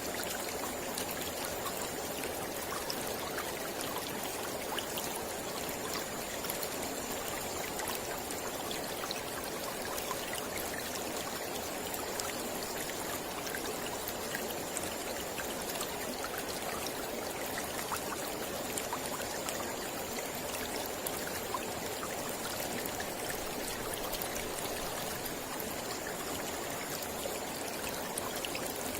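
Mountain river flowing steadily over rocks: a continuous rushing of water with small splashes and trickles through it.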